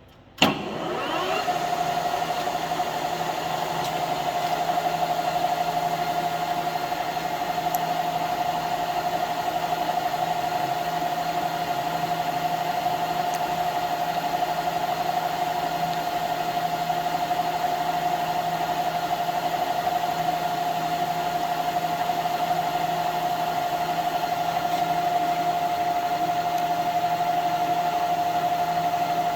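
Jet GH-1640ZX gear head lathe switched on with a sharp clunk, its spindle spinning up within about a second, then running steadily with a constant whine and low hum from the geared headstock.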